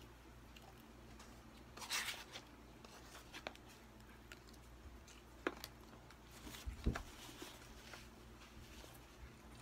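Faint scraping and clicking of a plastic fork in a cardboard takeout food box, with light rustling, a stronger rustle about two seconds in and a low thump around seven seconds.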